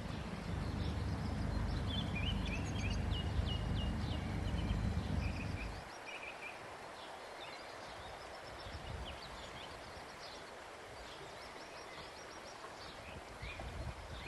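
Small birds chirping, with many short, quick calls. A low rumble runs underneath and cuts off suddenly about six seconds in.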